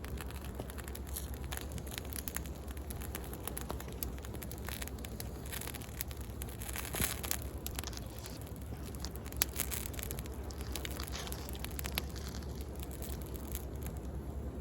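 Wood bonfire crackling and popping in irregular sharp snaps, with a couple of louder pops, over a steady low rumble of sea waves.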